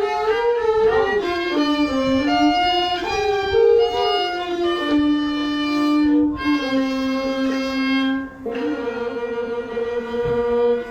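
A bowed fiddle plays a slow melody with sliding notes over a second, lower line, then settles on long held notes in the last few seconds.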